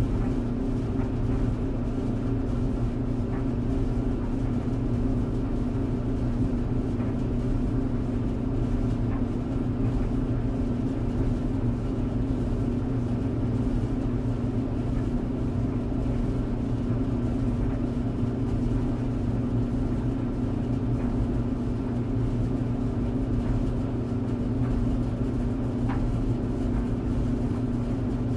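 Tumble dryer running: a steady low hum, with a few faint ticks.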